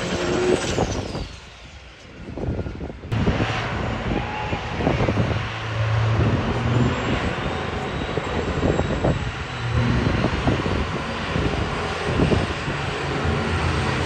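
High-horsepower diesel truck engine running hard, with a high turbo whine that falls in pitch in the first couple of seconds; the noise dips briefly, then comes back loud and rough about three seconds in.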